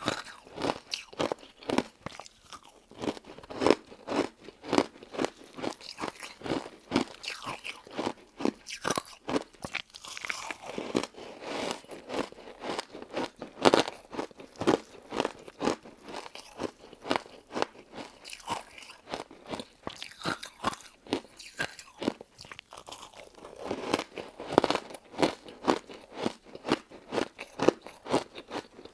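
Close-up chewing and crunching of a crunchy crystal-ice dessert: steady, repeated crisp crunches, about two a second, with a few louder bites.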